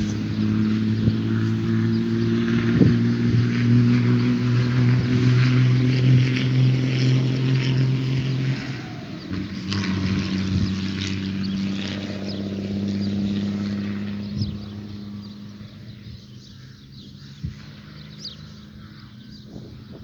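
Motor vehicle engine running with a steady hum, changing note about halfway through, then fading away over the last few seconds.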